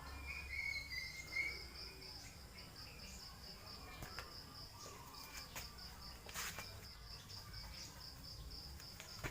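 Insect trilling: a steady, high, evenly pulsing chirr. A brief high chirp comes near the start, and a few faint knocks are heard.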